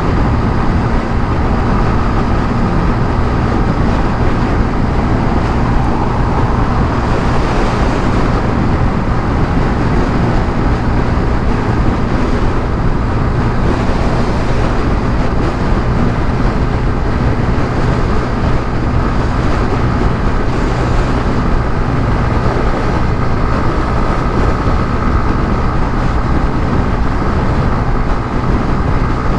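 150cc motorcycle riding at a steady cruising speed: a constant engine drone under loud, unbroken wind noise on the microphone.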